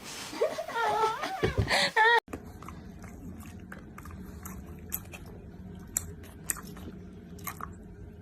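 A pet chewing and crunching food, with irregular sharp crunches over a steady low hum. Before that comes a short wavering pitched vocal sound, cut off abruptly about two seconds in.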